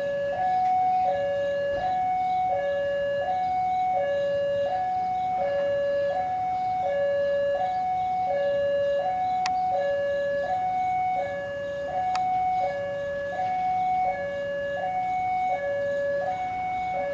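Electronic two-tone railway warning alarm sounding continuously, switching between a lower and a higher tone about every three quarters of a second. Two short sharp clicks come through partway along.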